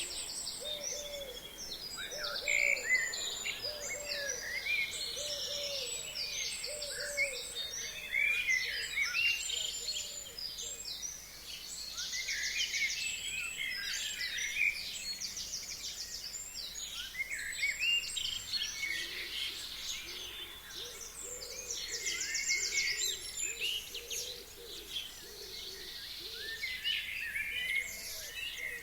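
Chorus of spring forest songbirds singing, many overlapping high chirps, trills and whistles. A lower hooting call repeats in a quick series in the first few seconds and again in the second half.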